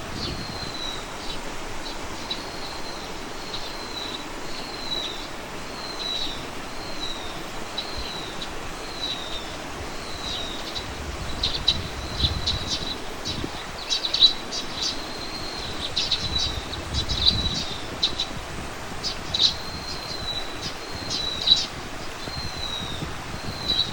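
A bird calling over and over with a short, high, falling note about once a second, joined from about halfway by bursts of sharp, rapid chipping calls, against a steady outdoor background hiss.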